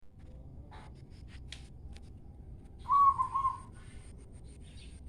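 A bird gives a short whistled call of a few wavering notes about three seconds in, over a low steady hiss, with a few faint clicks before it.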